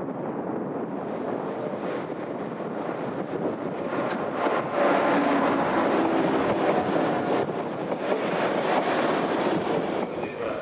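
Train running past, a rushing noise that builds about four seconds in, with faint whining tones through the middle, and falls away near the end.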